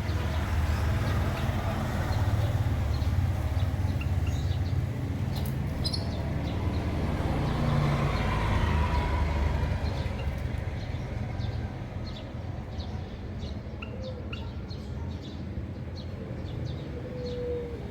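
Small caged finches chirping in short, high calls, scattered through, over a low background rumble that is louder for the first ten seconds or so and then eases.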